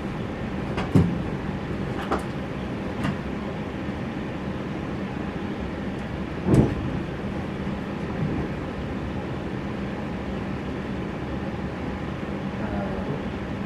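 Inside an electric train carriage standing at a platform: a steady hum with a few sharp knocks in the first three seconds and a louder thump about six and a half seconds in, as the sliding doors close.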